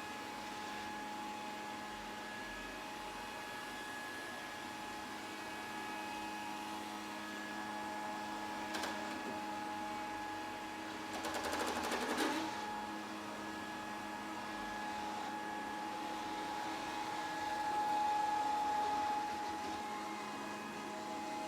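Grundig VCR 2131 robot vacuum running, a steady motor and fan whine with several fixed tones. About halfway through there is a brief burst of rapid clicking and rattling.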